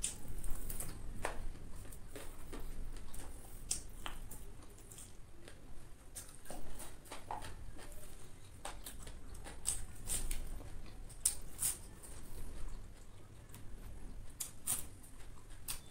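A person chewing fried chicken with her lips smacking, making irregular small wet clicks and squelches of the mouth.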